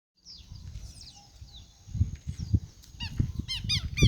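Birds chirping: faint calls at first, then from about three seconds in a rapid series of short, high, falling chirps, several a second. Low rumbling thumps sit underneath.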